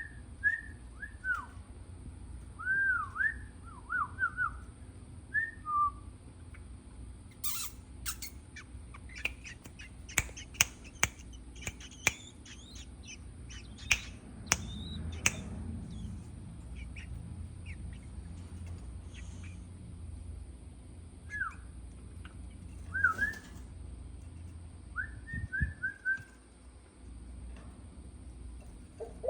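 Small birds chirping in short, arching notes, in a few runs. Between the runs come a cluster of sharp clicks and higher, quicker chirps.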